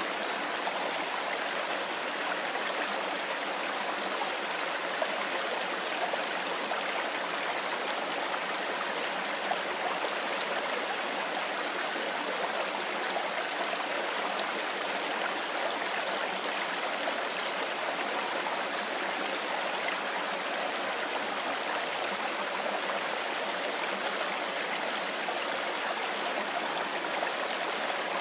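Mountain river flowing over stones: a steady, even rush of water.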